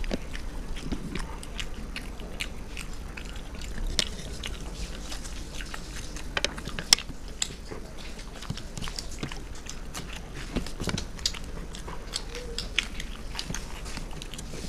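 Close-up eating sounds of two people eating luchi and aloor dum by hand: chewing and wet mouth sounds, with many short, irregular clicks and smacks.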